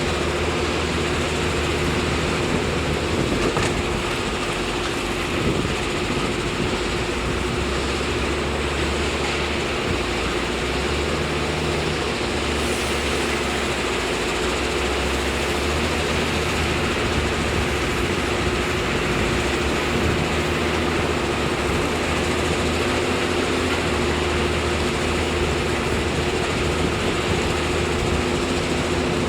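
Diesel engine of heavy earthmoving machinery running steadily under work, with a constant hum and small shifts in its low note.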